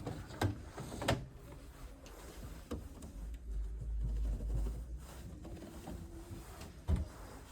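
Clicks and knocks of washing machine doors and drawers being opened and shut, a sharp one about half a second in, another a second later, a faint one near three seconds and one near the end, with a low rumble in the middle.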